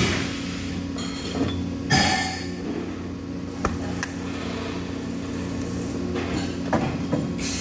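Metal clinking and knocking a few times, with one ringing metallic strike about two seconds in, over a steady low hum of shop machinery.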